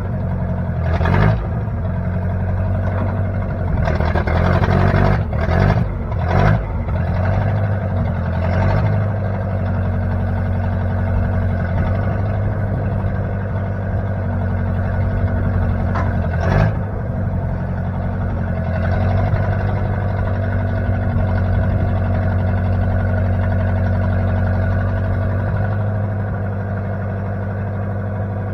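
Engine of a 1960 Case 540 tractor-loader-backhoe running steadily, with a few brief louder bursts in the first nine seconds and once more just past the middle.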